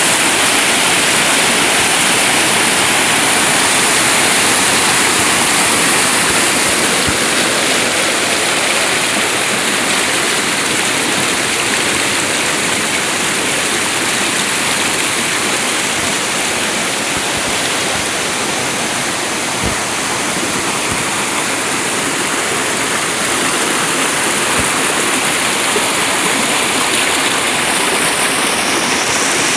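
Rushing water, a loud steady torrent of a stream running high after heavy rain.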